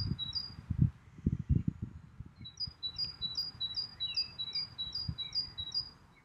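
A small bird singing a quick two-note phrase over and over, a higher note then a lower one, about three phrases a second, in two runs with a pause between. A few low thumps come in the first two seconds, with one more about five seconds in.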